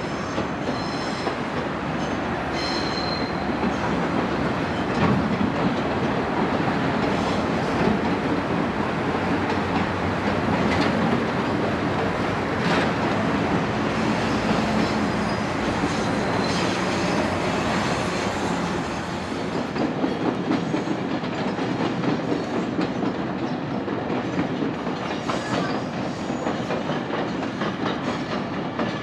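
Steady loud rumble and rattle of a train running on rails, with a few brief high squeals.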